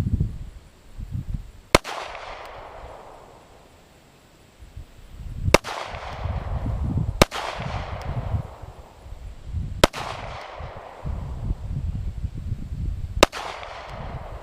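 Five handgun shots fired one at a time, a few seconds apart, each sharp crack followed by an echoing tail. A low rumble of wind on the microphone fills the gaps between shots.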